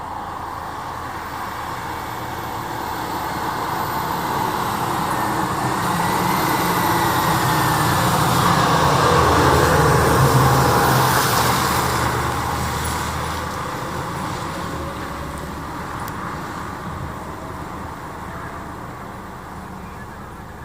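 Fire engine driving past on the road: its engine and tyre noise grow louder to a peak about halfway through, then fade as it moves away.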